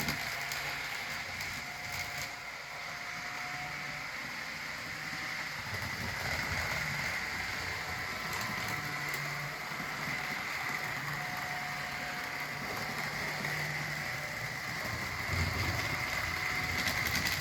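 Walthers Trainline GP15-1 HO scale model locomotive running laps on the track: a steady high motor and gear whine, with a lower rumble of wheels on rails that swells and fades.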